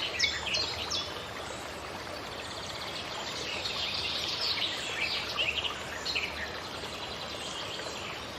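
Several forest birds chirping and singing: quick downward-sliding notes in the first second, a fast trill about three seconds in, and more chirps around five seconds, over a steady hiss of forest ambience.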